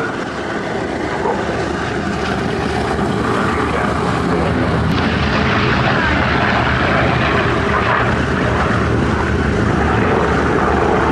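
Propeller-driven piston aircraft engine droning steadily as the aircraft flies its display, growing a little louder about halfway through.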